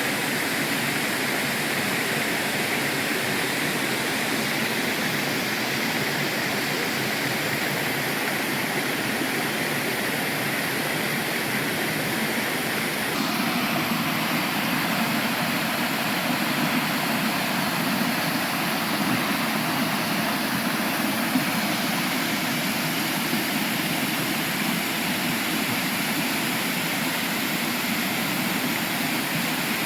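Waterfall: a steady rush of falling water, its tone shifting slightly a little before halfway.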